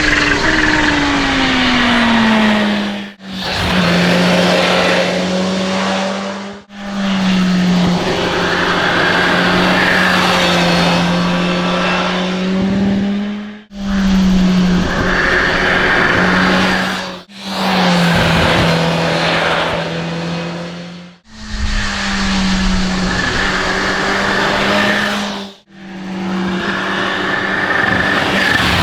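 Kawasaki Z H2's supercharged inline-four running in a series of short clips, its note mostly held steady with a falling pitch right at the start, each clip cut off abruptly. A steady chorus of cicadas buzzes behind it.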